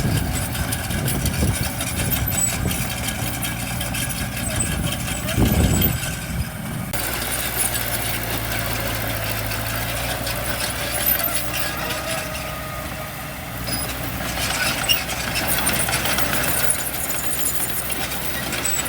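Diesel engines of heavy construction machinery, dump trucks and a bulldozer, running steadily at low revs. The sound changes abruptly about seven seconds in.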